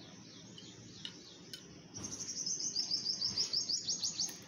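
A bird calling: a fast, even run of high, sharp chirps starts about two seconds in and lasts a couple of seconds, with fainter calls before it.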